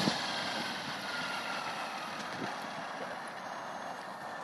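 RC helicopter winding down after landing: a faint whine slowly falling in pitch over a steady hiss, fading gradually.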